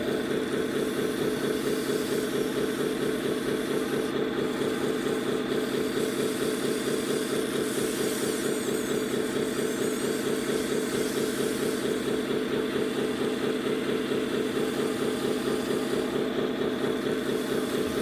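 Truck diesel engine sound idling steadily with a fast, even chug, played by a 1/14 scale RC truck's engine-sound unit.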